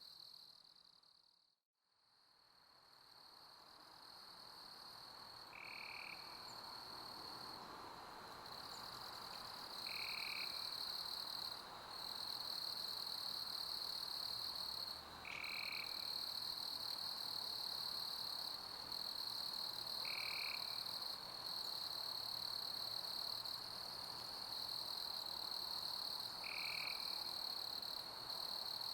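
Steady high chirping of a chorus of crickets over an even hiss of pink noise, with a short lower call coming back every five seconds or so. The whole sound fades almost to nothing about a second and a half in, then swells back up over the next several seconds.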